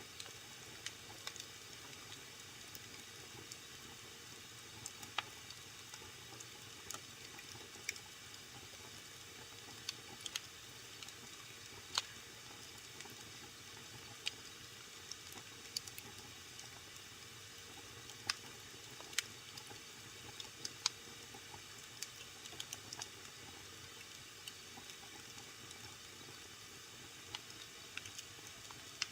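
Wood fire burning in a fireplace: a steady soft hiss with irregular sharp crackles and pops from the burning logs, a few louder snaps scattered throughout.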